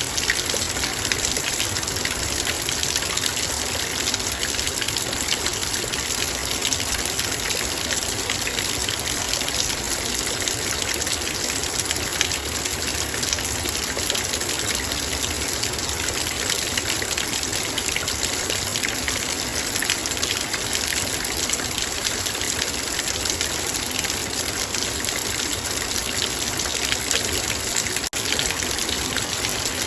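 Heavy rain falling steadily on a metal bowl: a dense, even patter of countless drops with no let-up.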